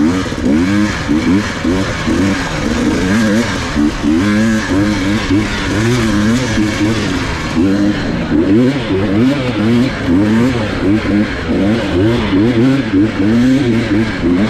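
Enduro dirt-bike engine revving up and down over and over as the throttle is worked on and off while riding.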